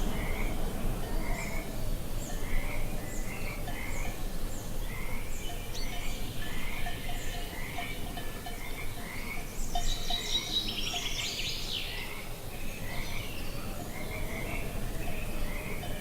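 Nature ambience: a small animal repeating short curved calls, about one and a half a second, over a steady low rumble. A brief burst of bird song comes about ten seconds in.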